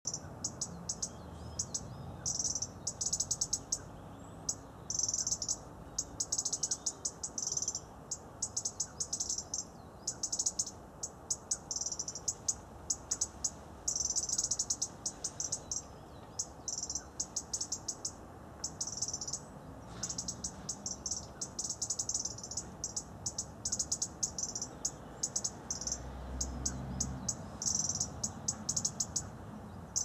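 Small birds chirping in short bursts of rapid high chirps, one burst after another.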